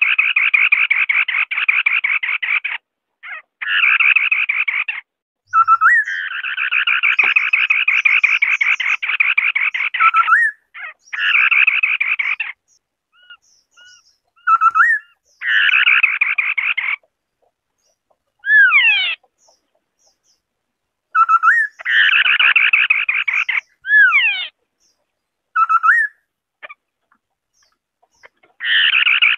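White-browed scimitar-babbler calling: long, fast rattling phrases of one to several seconds, broken by short gaps, with brief falling whistled notes and short upslurred notes between them.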